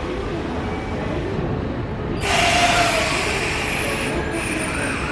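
Electric commuter train standing at a station platform with its equipment humming steadily. A loud hiss sets in suddenly about two seconds in and carries on.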